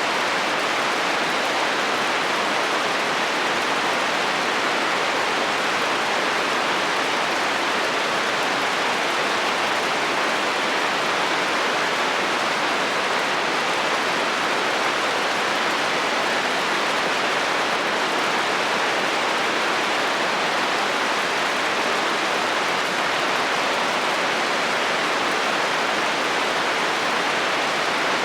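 Steady heavy rain drumming on a metal roof, an even unbroken patter with no thunder.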